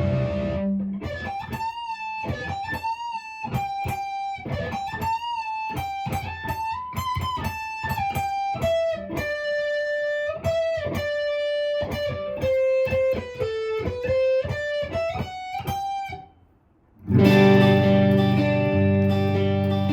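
Gretsch electric guitar on its neck pickup playing a single-note melody with bends and vibrato, each note plucked and falling in pitch toward the end of the phrase. It stops about 16 seconds in, and after a short break loud strummed chords ring out.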